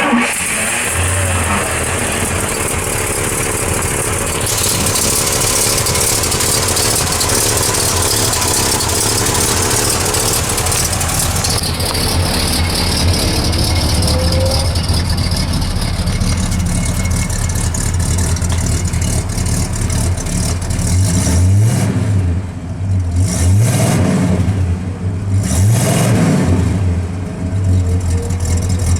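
The 455 cubic-inch Rocket V8 of a 1969 Oldsmobile Delta 88 starts and settles into a steady idle. Near the end it is revved about three times, each rev rising and falling back to idle.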